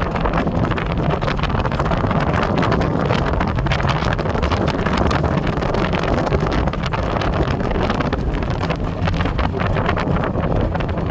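Four-wheeler (ATV) engine running steadily, with wind buffeting the microphone.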